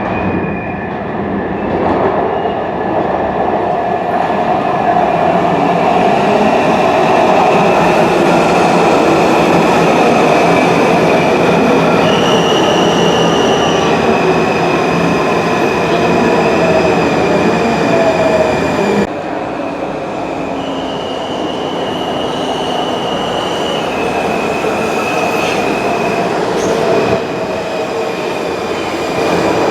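Washington Metrorail train running in a station: dense rumbling noise, steady high-pitched tones that step up and down, and a whine that slowly falls in pitch. About two-thirds of the way through, the sound cuts abruptly to another, slightly quieter train doing the same.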